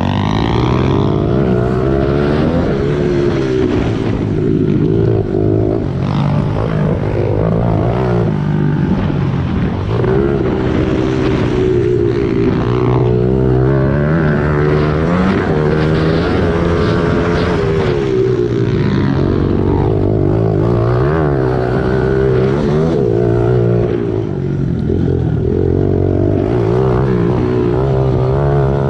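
Small single-cylinder four-stroke pit bike engines being ridden hard, the pitch climbing as the throttle opens and dropping back when it closes, over and over, as on corners and straights.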